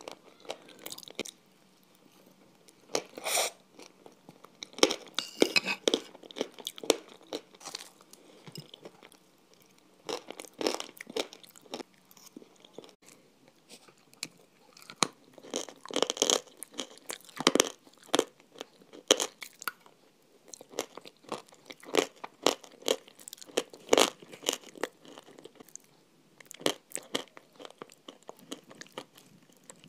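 Crunching and chewing of frozen chocolate ice cream eaten off a spoon, in irregular crackly bursts of bites separated by short pauses.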